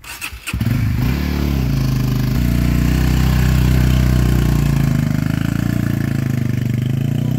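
A motorcycle engine starts about half a second in, then runs steadily as the bike pulls away.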